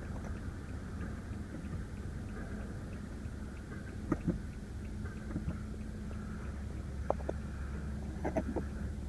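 Steady low hum of the running car heard from inside the cabin, with a few light clicks and taps about four seconds in and again near the end.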